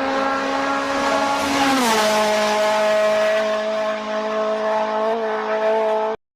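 Engine sound held at steady revs, dropping to a lower steady pitch about two seconds in, then cutting off abruptly near the end.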